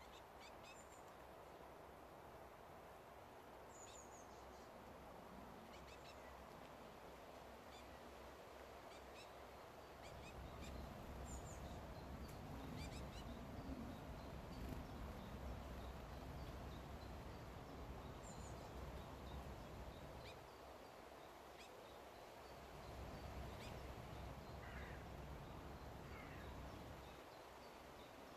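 Faint outdoor birdsong: scattered short, high chirps from small birds over a steady background hiss. A low rumble swells up about ten seconds in, fades, and returns for a few seconds near the end.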